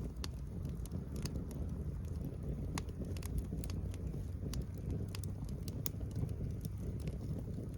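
Wood fire crackling in a fire pit, with scattered sharp pops at irregular intervals over a low steady rumble.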